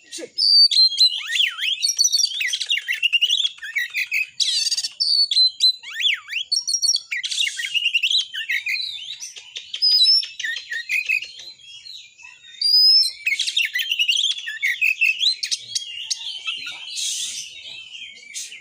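Oriental magpie-robin singing a fast, varied run of whistles, glides and trills, broken by a few short harsh rasping notes. This is the loud, continuous challenge song kept birds give when roused to fight.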